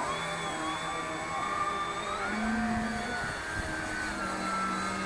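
Electric motor and propeller of a Dynam Sbach 342 radio-controlled aerobatic plane whining in flight, running on a 4S battery. The pitch holds mostly steady and shifts up and down a few times as the throttle changes.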